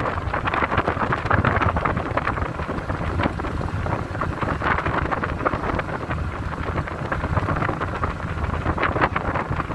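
A car driving on an unpaved forest road: steady rumble from the tyres and car, with a constant fine crackle of gravel and grit under the wheels.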